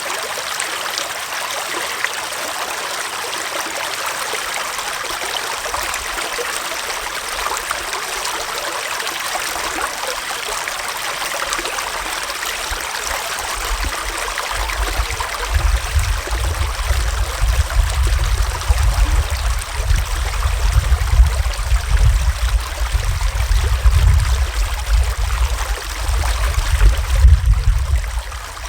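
Shallow forest stream flowing and trickling over stones, a steady rushing water sound. About halfway through, an irregular low rumble joins in and comes and goes.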